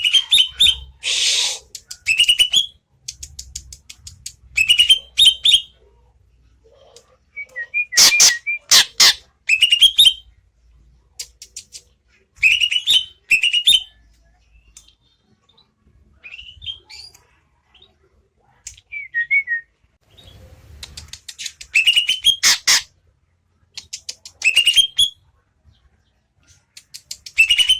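Greater green leafbird (cucak ijo) singing in bouts: short, sharp phrases of clicking and whistled notes, repeated every few seconds with brief pauses between.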